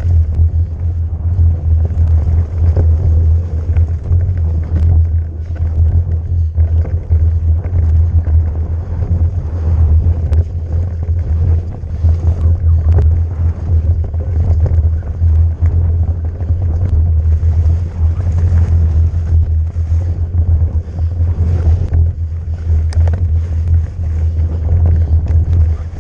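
Electric mountain bike riding fast downhill over rough trail: a steady, heavy rumble of wind buffeting the on-board microphone, with frequent short clicks and knocks from the bike rattling over roots and rocks.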